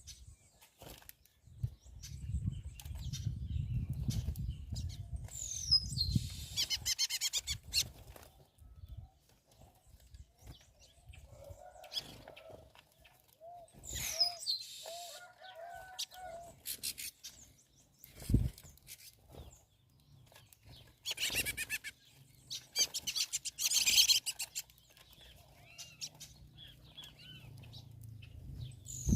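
Birds' wings flapping in repeated bursts as they fly in and out of a feeding spot. A few short calls come between the bursts: high falling chirps, and a run of short, lower call notes around the middle.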